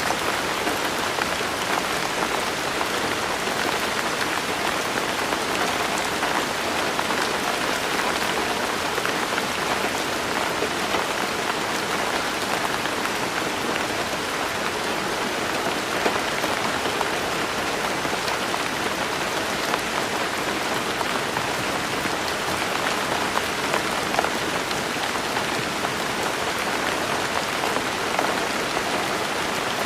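Steady rain falling and pattering on surfaces, an even hiss with scattered individual drop splats.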